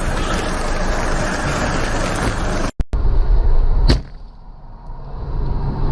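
Steady road and engine noise from a car on the road, broken off abruptly by a cut a little under three seconds in. A single sharp knock follows about a second later, then quieter road noise that builds up again.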